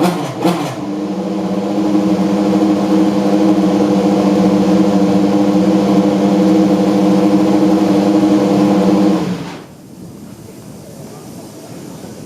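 Toyota Prius apr GT300 race car's engine taking a last quick blip of the throttle, then idling steadily and evenly, then switched off about nine seconds in, cutting out abruptly.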